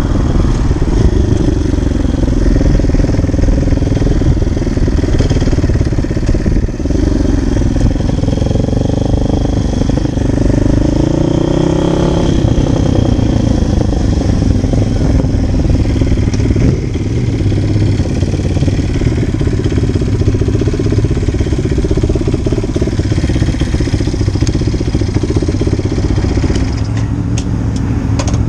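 Orion RXB150 dirt bike's small single-cylinder engine running under way, its pitch rising and falling with the throttle as the bike slows and turns, over a steady low rumble of wind on the microphone.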